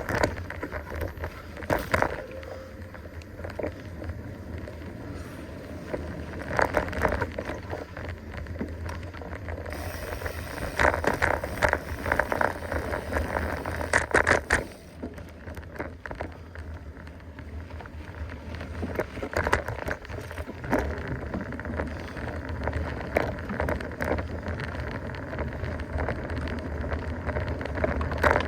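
Mountain bike rolling along a dirt trail: a steady tyre and ride noise over a low rumble, broken by frequent sharp clicks, knocks and rattles from the bike over bumps. Clusters of the knocks come about 2, 7, 11 to 14 and 20 seconds in.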